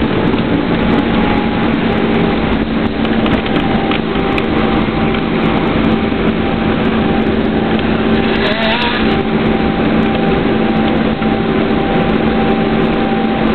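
Steady jet-engine and airflow noise of an Airbus A320 heard inside the cabin, a constant rush with a steady hum and whine running through it. A short hiss rises about eight and a half seconds in.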